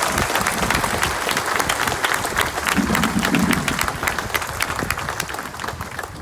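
Crowd applauding, the clapping thinning out and getting quieter near the end.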